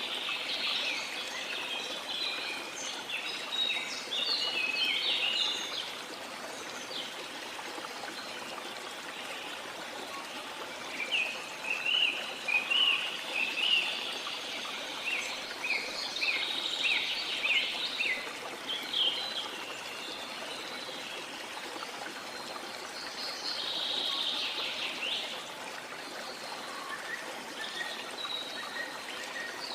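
Steady rush of a waterfall in tropical rainforest, with birds singing over it in bouts of quick high chirps: near the start, busiest from about a third to two thirds of the way through, and again briefly later.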